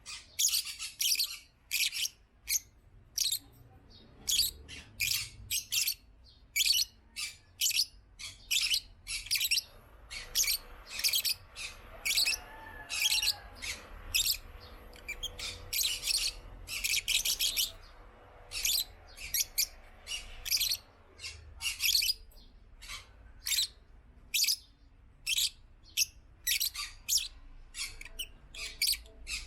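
African lovebirds chirping: a steady stream of short, shrill, high-pitched chirps, several a second in irregular runs.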